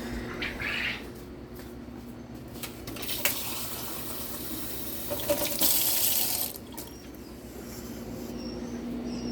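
Water running from a tap for about three and a half seconds, starting about three seconds in and strongest just before it stops, over a steady low hum.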